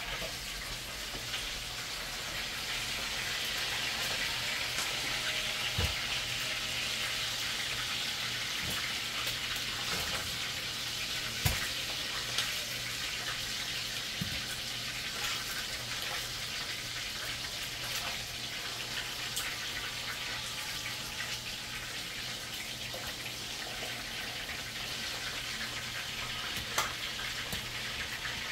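Chicken pieces frying in oil in a frying pan, a steady sizzle as they brown, with a few sharp clinks and knocks of a utensil against the pan and pot as pieces are lifted out.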